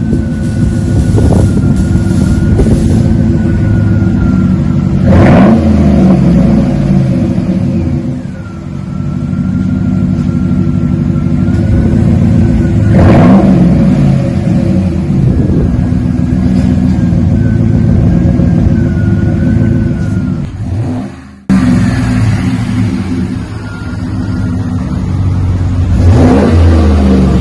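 Chevy Silverado 5.3-litre V8 running through a cat-back dual exhaust with Flowmaster Super 10 mufflers and factory catalytic converters, idling and revved briefly three times, each rev climbing and falling back to idle. The sound drops out for a moment about two thirds of the way through.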